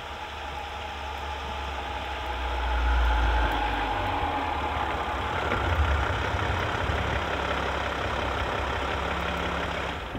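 Van driving along: a steady low engine rumble with road and tyre hiss, swelling a little about three and six seconds in.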